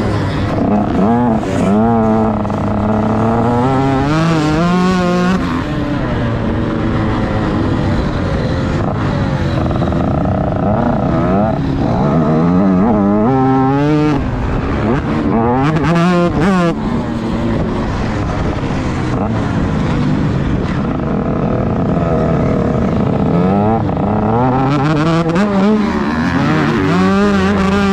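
Motocross bike engine heard from a camera mounted on the bike, revving up and dropping back again and again as the rider opens and shuts the throttle and shifts gears.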